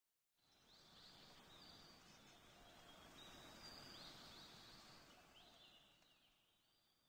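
Faint outdoor ambience with small birds chirping, fading out about six seconds in.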